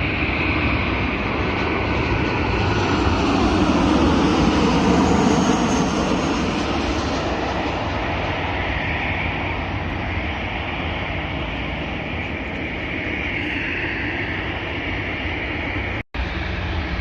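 Airliner engines passing close by: a broad roar with a high whine that swells to its loudest about four to five seconds in, then slowly eases off. The sound drops out completely for a split second near the end.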